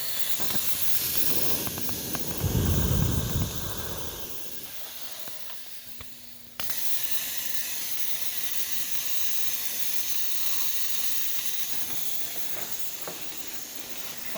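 Compressed air hissing steadily out of a rust hole in an air compressor's tank, a sign that the tank has rusted through. There is a low rumble about two seconds in, and about halfway the hiss fades, then comes back suddenly louder.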